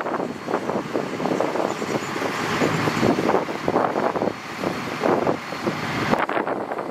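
Heavy construction machinery running, a dense, uneven rumble with an abrupt change in the sound about six seconds in.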